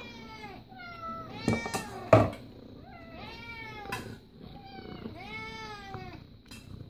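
Domestic cat meowing over and over in short, rising-and-falling calls, begging at the sight of fish. A sharp knock about two seconds in, louder than the meows.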